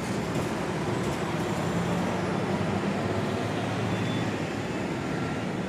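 Steady city traffic noise: a continuous rumble of passing vehicles with no single event standing out.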